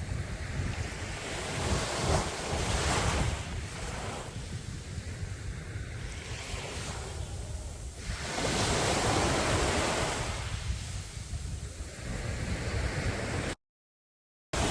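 Sea waves breaking and washing up a beach, the surf swelling twice, with a steady low rumble underneath. The sound drops out to silence for about a second near the end.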